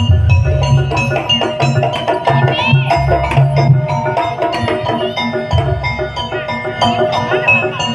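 Javanese jaranan gamelan music played live: a steady, driving pattern of hand-drum strokes under ringing, interlocking metal percussion tones.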